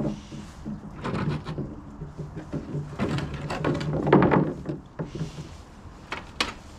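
Plywood pieces being laid, slid and knocked into place on a wooden platform frame: a series of wooden knocks and scrapes.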